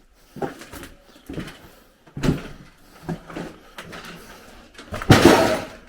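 Footsteps scuffing and crunching over debris, about one step a second, then a louder, longer scrape about five seconds in as the walker trips.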